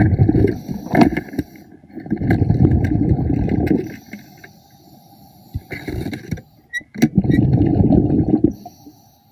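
Scuba diver breathing underwater: bursts of exhaled bubbles from the regulator, rumbling for a second or two each, with quieter gaps between breaths.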